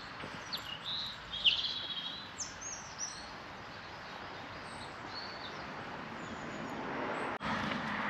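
Small birds chirping and singing in short, sweeping calls over the first three seconds, above a steady outdoor hiss. A broad rushing noise swells toward the end.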